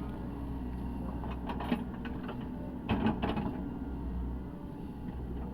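Cat 307E2 excavator's diesel engine running steadily, with a few short knocks about a second and a half in and a louder cluster of clanks about three seconds in.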